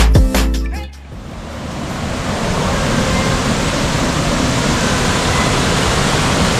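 Electronic music with a heavy beat cuts off under a second in. A steady rushing of falling water from a waterfall then swells up over a second or so and holds.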